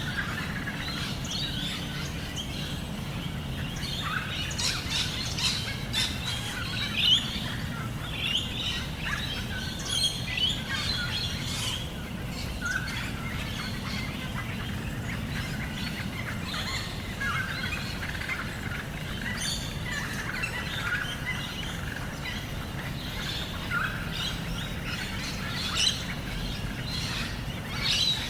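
Several birds chirping and calling on and off over a steady low background hum of outdoor ambience.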